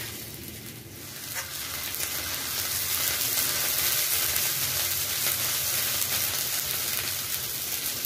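Chopped onions sizzling steadily as they fry in oil in a steel kadai, stirred with a spatula.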